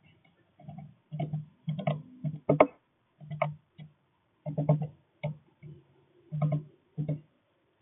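Irregular taps and knocks on a bird feeder close to the microphone, about a dozen short hits, from birds landing and pecking at seed.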